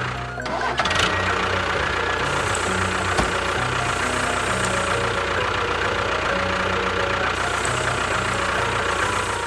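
An engine-like machine running steadily with a dense drone, dipping briefly about half a second in and giving a single knock near one second.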